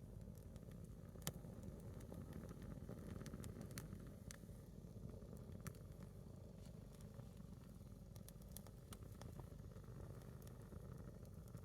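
A single split log burning in a small wood fire. Faint, scattered crackles and snaps sound over a steady low rumble, with one sharper snap about a second in.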